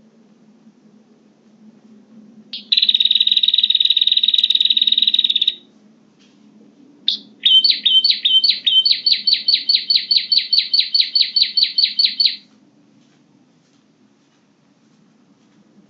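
Prinia (prenjak) calls used as a bird-trapping lure: a harsh buzzing trill lasting about three seconds, then, after a short pause, a fast run of sharp repeated notes, about six a second, for about five seconds.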